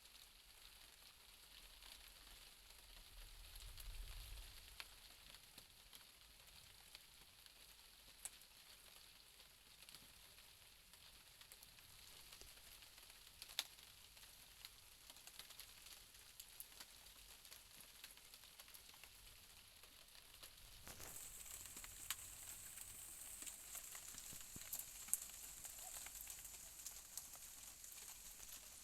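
Faint, steady rain hiss at night, with scattered drops ticking. A low rumble about four seconds in, like distant thunder. The hiss grows louder about three-quarters of the way through.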